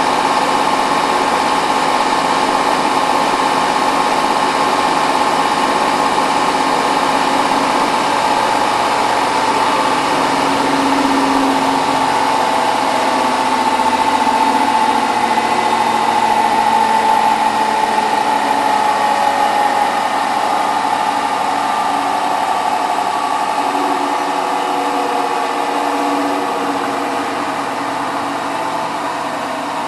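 Hotpoint WT960 washing machine in its final fast spin, the drum turning at high speed with a steady motor whine and rushing drum noise. The whine's pitch wanders slightly and the sound eases a little in the second half.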